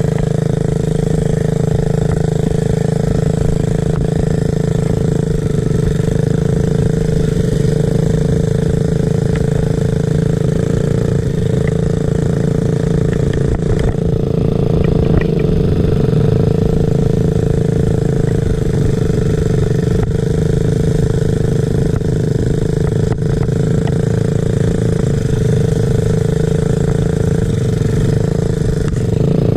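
Small dirt-bike engine running at a steady, nearly unchanging pitch.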